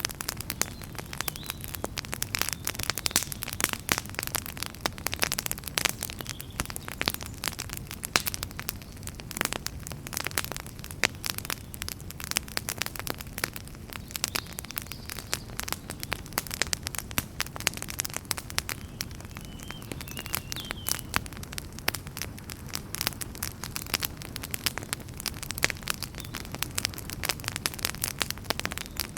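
Fire in a fireplace crackling, with dense, irregular pops and snaps over a steady low rumble of flame. A brief faint whistle comes about twenty seconds in.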